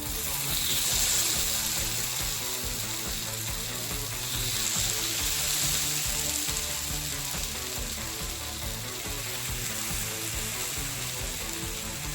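Chicken sizzler sizzling hard on a hot sizzler platter: a loud hiss that starts suddenly and swells about a second in and again around the middle.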